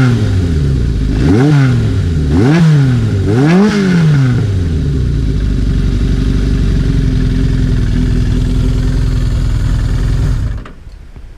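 Suzuki GSX750E inline-four running through a Kerker aftermarket exhaust: four quick throttle blips, each rising and falling in pitch, then a steady idle before the engine is switched off and the sound cuts out near the end.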